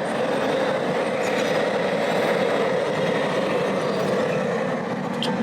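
Steady rushing roar of an outdoor gas burner under a crawfish boil pot, the water in it coming to a rolling boil.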